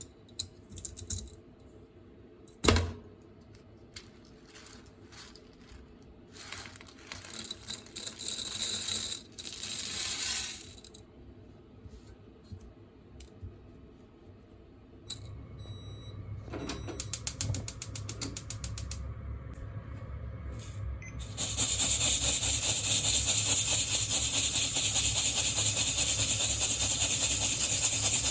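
Green coffee beans being handled in a hand-held mesh roasting net: scattered clicks, a sharp knock and rustling pours of beans, then a quick run of ticks. About three quarters of the way in, a steady loud hissing rattle starts and carries on.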